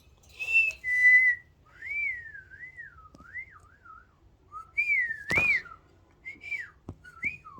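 A wavering whistle of clear notes sliding up and down in pitch, with a sharp click a little after five seconds in.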